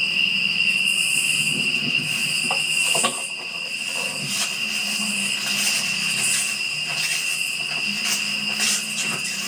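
Steady, unbroken chorus of night insects such as crickets, a high shrill drone over a faint hiss, with a few small clicks.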